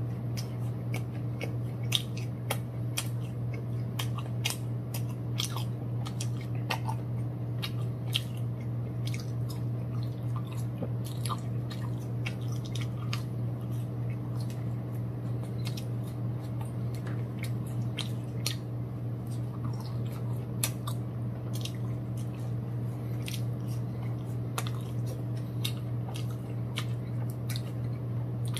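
Close-up eating sounds of a person biting and chewing crispy fried chicken and nuggets: many short sharp crunches and mouth clicks, irregularly spaced, over a steady low hum.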